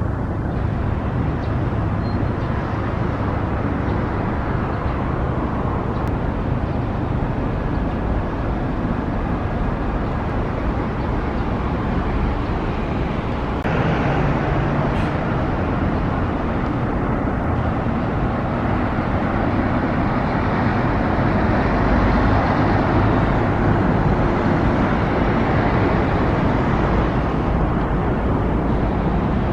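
Steady road traffic noise: cars and other vehicles running along the road, rising a little about halfway through.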